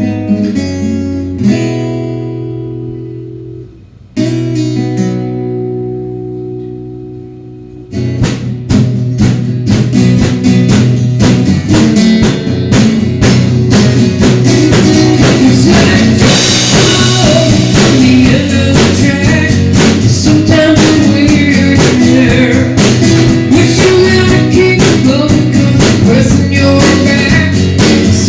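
Guitar intro to a song: two chords strummed once each and left to ring out, then about eight seconds in a steady, busy strummed rhythm starts and carries on.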